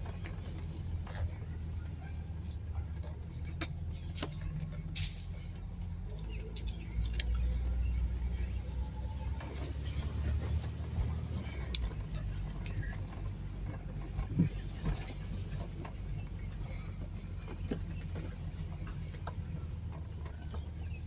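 1988 BMW 325i's straight-six engine running at low revs as the car drives slowly, heard from inside the cabin. Its note gets louder for a few seconds about seven seconds in. Faint scattered clicks and rattles sit over it.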